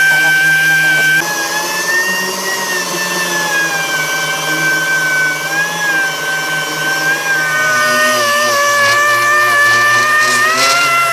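A motor running with a steady whine that drifts slightly in pitch. The tone shifts about a second in and again near eight seconds.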